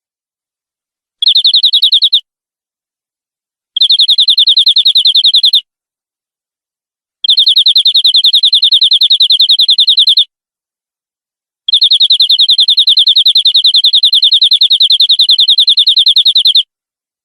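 Domestic canary singing rapid trills of fast, high repeated notes, about ten a second. There are four phrases, each longer than the one before: roughly one, two, three and five seconds, with dead silence between them.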